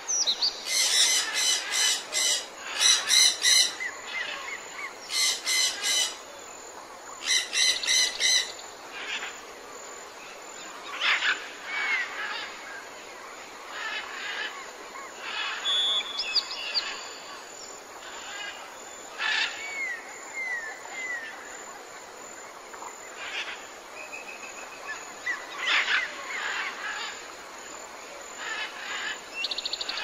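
Birds calling in the trees: four loud bursts of rapid, repeated chattering notes in the first eight seconds or so, then scattered short chirps and whistles.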